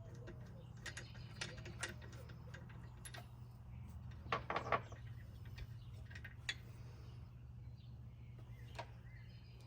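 Scattered metallic clicks and clinks of a socket and ratchet removing a spark plug, with a quick cluster of clicks about four and a half seconds in, over a steady low hum.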